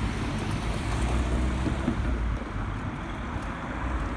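Class 375 electric multiple unit passing close by, a steady low rumble with wind buffeting the microphone.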